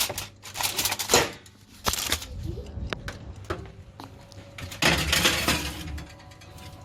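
Kitchen clatter: dishes, pans and utensils knocking and being set down, several separate sharp knocks and a longer rattle about five seconds in.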